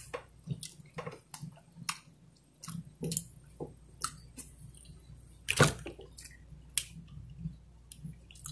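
Close-miked chewing of a birthday cake dessert sandwich: irregular wet mouth clicks and smacks, several a second, the loudest about halfway through.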